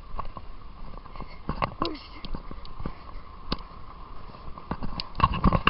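A runner's footsteps on a track, with hard breathing. There is a louder cluster of thumps near the end.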